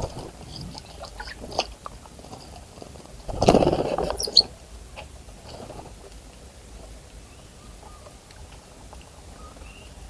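A small bird bathing in a bird bath: a burst of rapid wing-fluttering and splashing in the water lasting under a second, about a third of the way in, followed at once by a few short high chirps, with scattered light ticks and patters around it.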